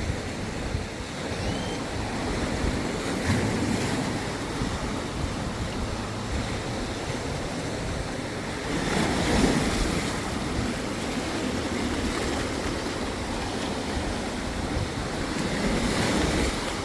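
Waves breaking and washing on the shore, swelling louder a few times, about three seconds in, around nine seconds and near the end, with wind buffeting the microphone.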